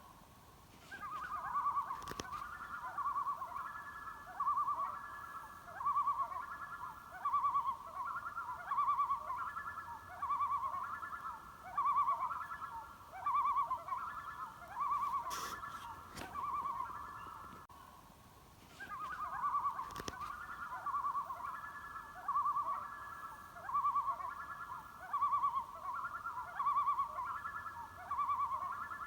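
An animal's short trilled call, repeated about every one and a half seconds, with a break of about a second partway through. A few faint clicks are heard among the calls.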